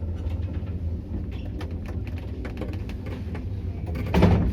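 Lift car travelling in its shaft: a steady low hum with scattered clicks and creaks of the car and its mechanism, and a louder creak near the end.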